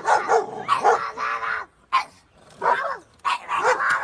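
A dog barking: a string of short pitched calls, broken by a pause of about a second and a half in the middle.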